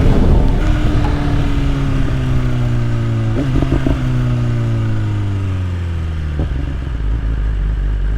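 BMW S1000RR inline-four engine running under way, its pitch falling slowly for several seconds as the bike slows, with wind rumble on the microphone.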